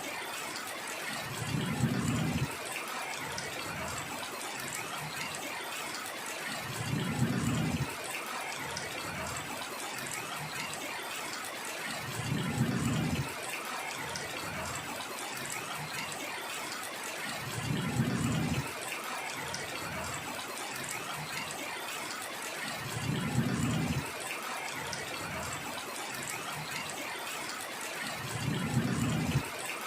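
Heavy rain falling in a steady hiss. A low rumble of about a second rises over it six times, evenly about five seconds apart.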